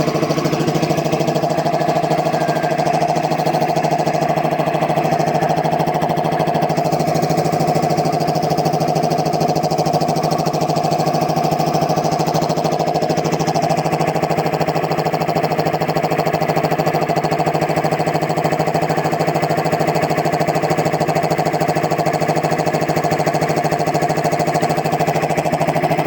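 10 hp reciprocating air compressor, with a newly fitted Poma compressor head and electric motor, running steadily under a working test with an even, unbroken hum.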